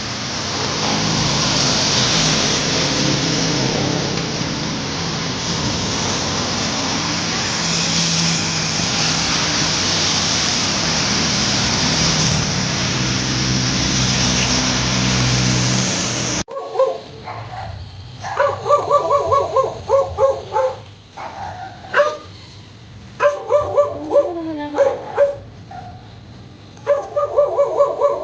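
A steady rushing noise with a low hum underneath, which cuts off abruptly about sixteen seconds in. A dog then barks and yips in several quick runs of short calls.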